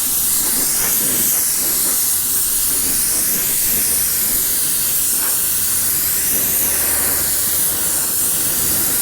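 Spray gun hissing steadily as it sprays primer onto sanded car-door bodywork, the hiss rising and falling slowly as the gun sweeps.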